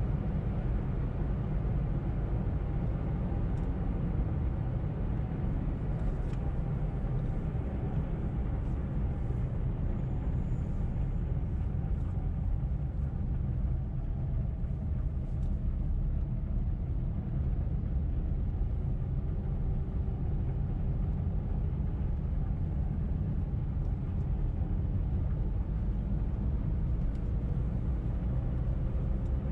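A car driving, heard as a deep, steady rumble with a faint engine tone drifting slowly in pitch; no crash impact is heard.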